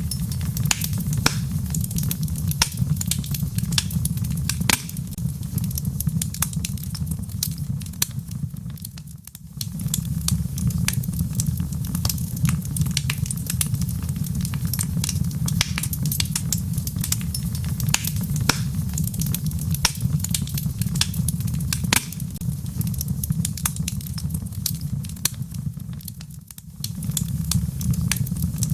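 Wood logs burning in a fireplace: a steady low rumble with frequent sharp crackles and pops. The sound dips briefly twice, about nine seconds in and near the end.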